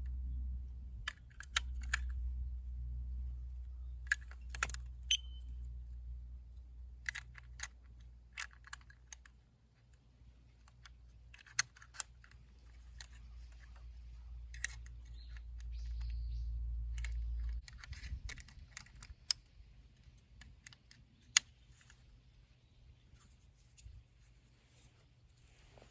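Scattered light clicks and clinks, like small hard objects being handled, over a low rumble that cuts off suddenly about seventeen seconds in.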